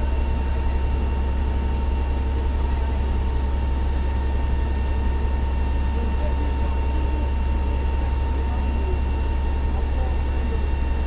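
Fire engine's diesel engine running steadily, a constant low drone with a thin steady whine over it.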